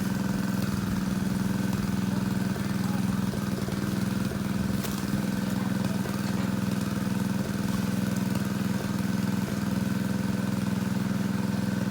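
Small engine running steadily at an even speed, driving the pump that sucks the water out of a fish pond.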